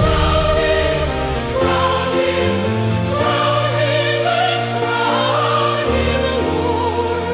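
Music: a choir with high soprano voices singing a hymn in long held chords with vibrato, over sustained low accompaniment.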